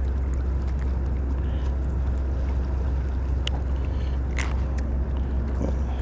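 Steady low rumble of a boat engine running, with a few faint clicks and knocks.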